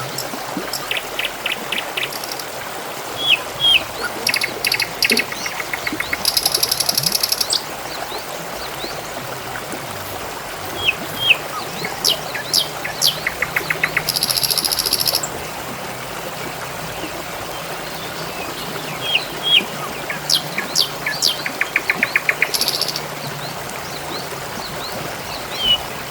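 Water trickling steadily, with small songbirds chirping and trilling over it. Three louder, buzzy bird phrases come about six, fourteen and twenty-two seconds in.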